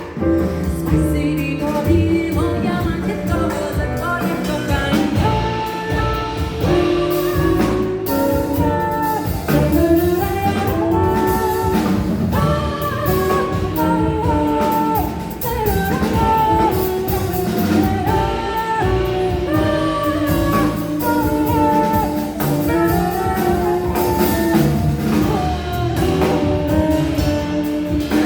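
A folk song sung with instrumental accompaniment: melodic vocal lines moving in steps over a low, pulsing bass, without a break.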